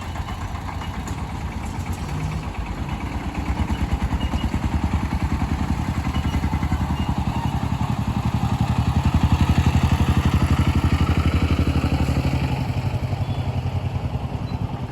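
Train running, with a fast, even rhythmic clatter over a low hum that grows louder toward the middle and then eases off.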